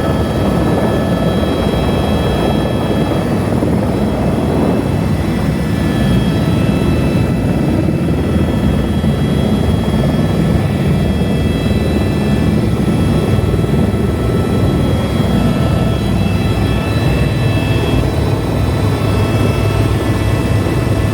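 Tour helicopter's rotor and turbine engine, heard from inside the cabin, running steadily: a dense, even drone with several high, steady whining tones above it.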